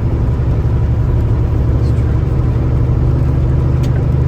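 Semi truck's diesel engine droning steadily at highway speed with road noise, heard from inside the cab.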